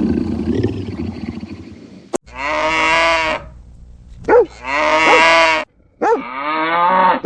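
A loud rough animal roar fades away over the first two seconds. After a short click come three drawn-out pitched animal calls, each about a second long and each cut off abruptly.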